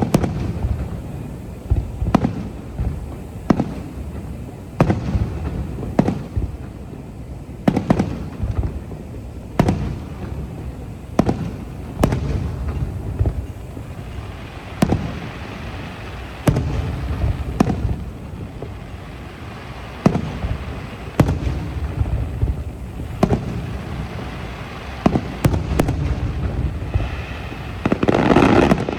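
Aerial fireworks going off in a steady run of bangs, one every second or two, each followed by a low rumbling echo. Crackling from the bursts grows through the second half and peaks in a dense, loud crackle near the end.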